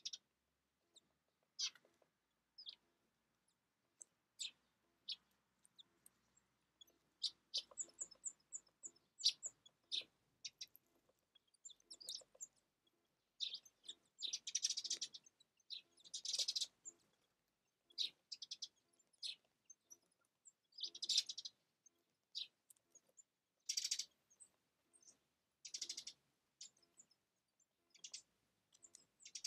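Small songbirds calling at a winter feeder: scattered short, high chirps and call notes, with a quick run of very high notes about eight seconds in. Several louder rasping bursts of about a second come in the second half.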